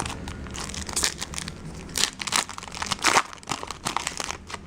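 Foil wrapper of a trading-card pack crinkling and crackling in the hands as the pack is torn open, in a string of irregular crackles that are loudest about two and three seconds in.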